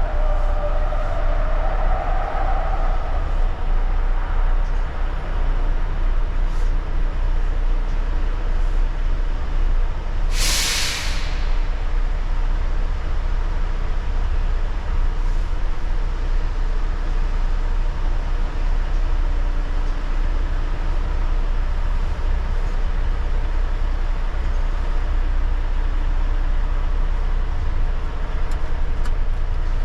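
Volvo truck's diesel engine running with a steady low rumble. About ten seconds in comes one short, loud hiss of the air brakes releasing air.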